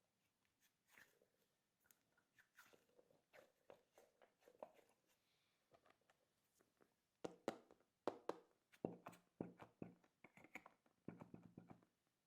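Quiet crackling and squishing as hands mix candy and squeeze balls in a small plastic tub, sparse at first, then a run of quicker, louder squelchy strokes in the second half.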